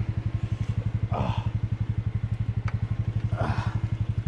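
ATV engine idling with a steady, even pulsing.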